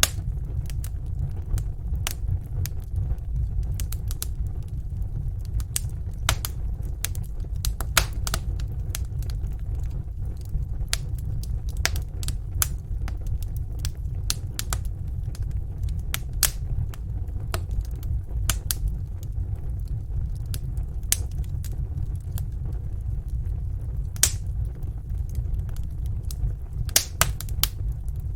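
Wood fire burning in a fireplace: irregular sharp crackles and pops, several every second, over a steady low rumble of the flames.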